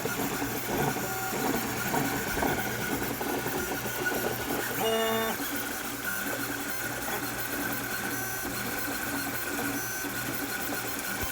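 3D printer running mid-print, its stepper motors whirring steadily with shifting faint tones as the head moves, and a brief pitched buzz about five seconds in.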